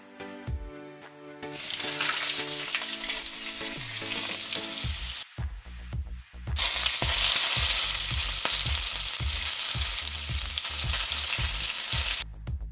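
Chopped onions sizzling in hot oil in a frying pan, starting about a second and a half in. About six and a half seconds in, marinated chicken pieces go in and the sizzle gets louder as they are stir-fried, stopping suddenly near the end.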